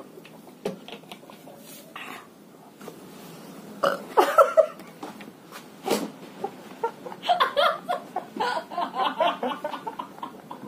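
Short bursts of voice sounds without words: a cluster about four seconds in, a sharp one about six seconds in, and a longer run of quick bursts from about seven seconds in.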